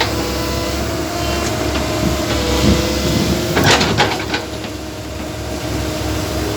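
A vehicle engine running steadily, with a short cluster of knocks or clatter about three and a half seconds in.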